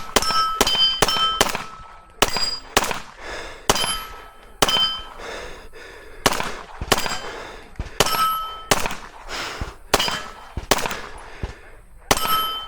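A steady string of gunshots, about one every half second to a second, many followed by the brief ring of a struck steel target.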